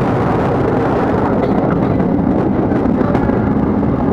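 Steady rumble of a passenger train running along the rails, heard from inside the carriage.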